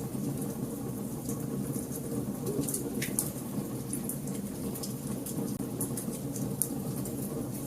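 Wood fire burning in a fireplace, crackling with frequent small pops over a steady low rumble of flames, and one louder pop about three seconds in.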